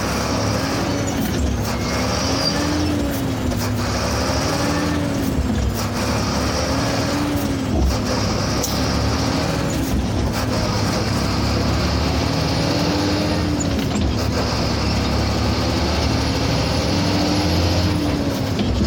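Sinotruk HOWO heavy truck running on the move, with a steady low drone and a tone that wavers up and down over it. Brief dips in the sound appear every few seconds.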